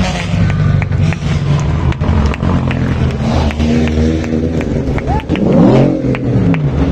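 Race car engine running, changing pitch, with a quick rev up and back down about five and a half seconds in. Sharp pops are heard throughout.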